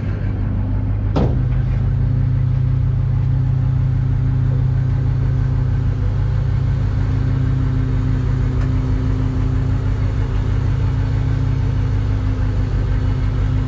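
Rollback tow truck's engine idling steadily at low idle, with no high idle engaged. About a second in there is a sharp click, and the engine note steps slightly higher, then holds steady.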